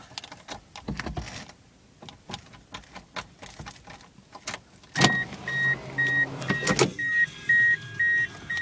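Keys and hands fumbling at the ignition of a 1993 Ford Escort wagon, then about five seconds in the key turns: the starter cranks for about two seconds and the dashboard warning chime begins beeping rapidly, about two and a half beeps a second, and keeps going.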